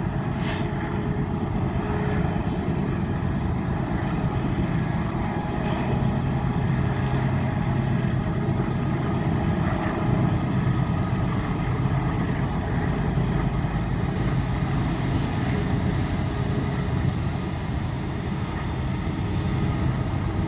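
Freight train going by on the grade: a steady low diesel drone with the rumble of the moving train.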